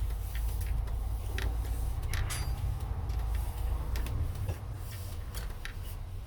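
Motorhome on the move, heard from inside the cabin: a steady low road and engine rumble with scattered clicks and rattles.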